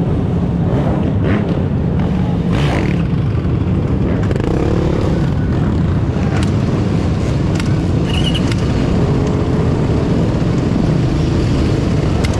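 Dirt bike and ATV engines of a large group ride running together in a loud, steady din, with an engine revving now and then.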